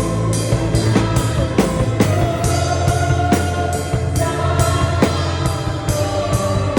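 Drum kit played along with a full band, recorded unfiltered on a phone: a steady beat of drum and cymbal hits over sustained bass, chords and singing.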